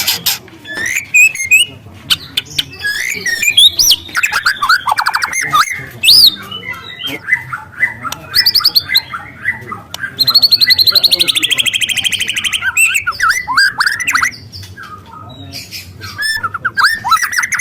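Young white-rumped shama singing a varied song of clear whistles, clicks and chattering notes. About ten seconds in it gives a long, rapid canary-like trill that slowly falls in pitch.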